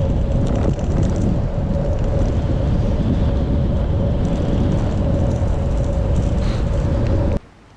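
Wind buffeting the microphone of a moving bicycle, with a steady tyre hum on the road. It cuts off suddenly near the end.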